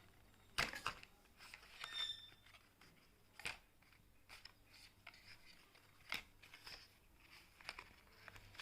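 Faint, scattered clicks, taps and light rustles of packaging and small parts being handled as a smartwatch box is unpacked.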